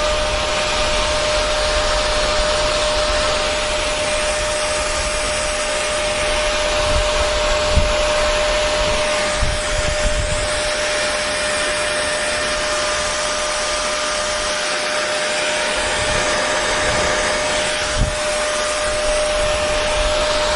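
Hair dryer running steadily: an even rush of blown air with a constant whine from the fan motor, and a couple of brief low bumps.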